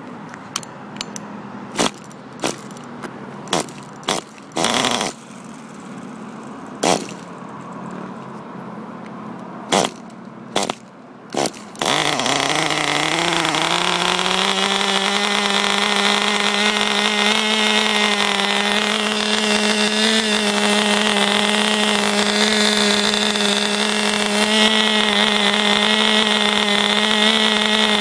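Kyosho Ultima RB buggy's 2.5 cc nitro glow engine. A series of short, sharp sounds comes first, then about twelve seconds in the engine catches. Its pitch climbs briefly before it settles into a loud, steady run with no load on it.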